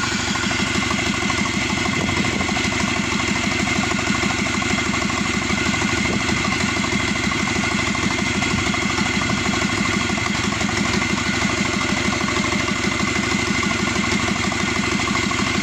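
Subaru EJ255 2.5-litre turbocharged flat-four engine idling steadily, fully warmed up after about 18 minutes of running, with an even rapid pulse and a steady high whine over it.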